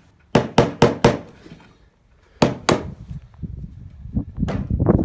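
Hammer driving nails into wooden boards: a quick run of four strikes, two more about halfway through, and another run of strikes starting near the end.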